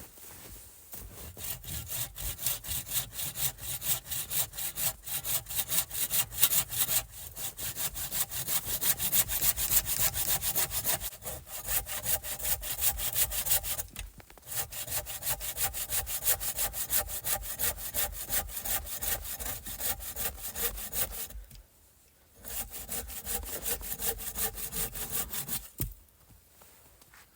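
A hand saw cutting through wood in quick, even back-and-forth strokes. It pauses briefly near the end, saws a few seconds more, then stops.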